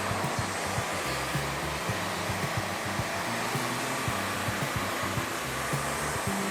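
Steady, even machine noise like a blower, over background music with a low bass line that changes notes every fraction of a second.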